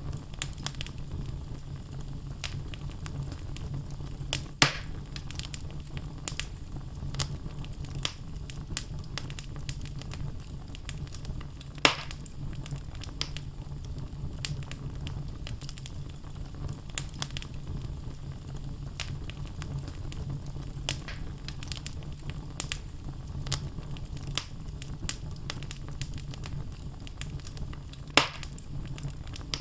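Wood logs burning in a fireplace, crackling with many small snaps over a steady low rumble of flame. Three louder pops stand out: about five seconds in, about twelve seconds in, and near the end.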